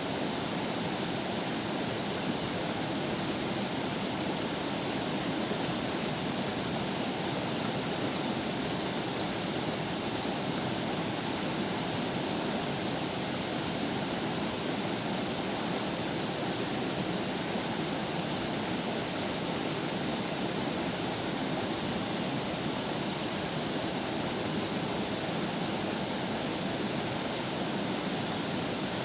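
River water flowing over rocks: a steady, even rush with no change.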